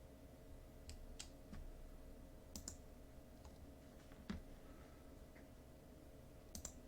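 Scattered clicking at a computer, about eight clicks, some in quick pairs, over a faint steady electrical hum.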